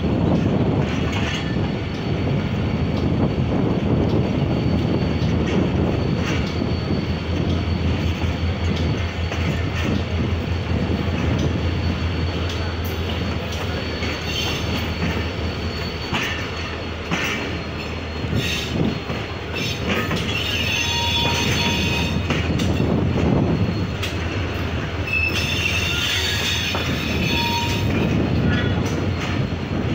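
Passenger train rolling on the rails with a continuous rumble. Wheels squeal at times, most clearly in the latter half.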